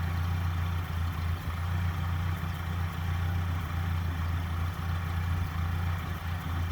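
1956 Ford tractor's four-cylinder gasoline engine idling steadily, running again after its clogged carburetor was cleaned out.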